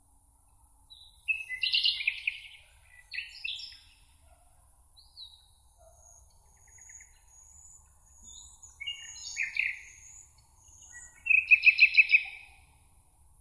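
Songbirds singing in a meadow: several short, varied song phrases, the loudest a quick run of about seven repeated notes near the end. Fainter thin, high calls come from another bird, over a steady high hiss.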